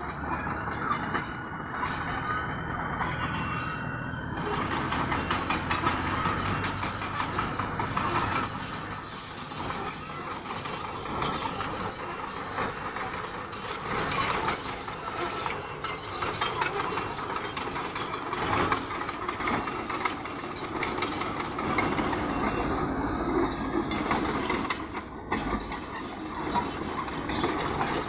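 Bulldozer's diesel engine running, with a dense mechanical clatter throughout.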